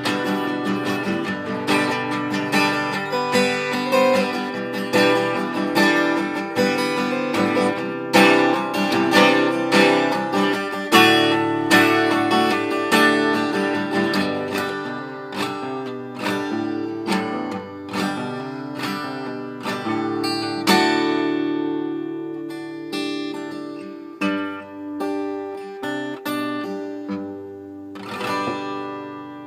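Acoustic guitar playing the instrumental outro of a song, plucked and strummed chords ringing out; the notes grow sparser and fade away near the end.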